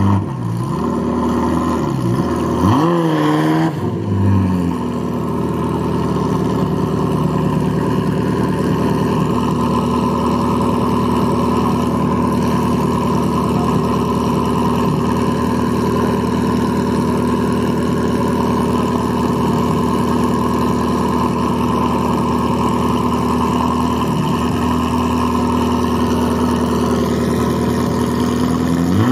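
Ferrari F40's twin-turbo V8 blipped once about three seconds in, its pitch rising and falling, then idling steadily. Another rev starts at the very end.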